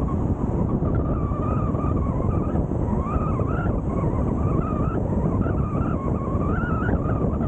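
Car driving along a road: a steady rush of tyre and wind noise, with a faint wavering whine running through it.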